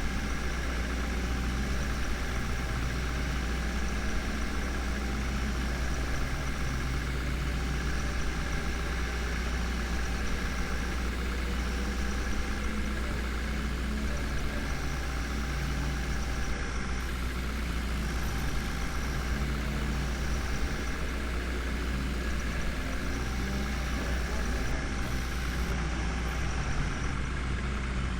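Heavy diesel engine running steadily at a low idle-like speed, a continuous low drone with slight shifts in its note.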